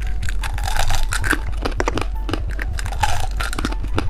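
Close-up crinkling and clicking of plastic candy packaging being handled and opened, a run of quick irregular crackles.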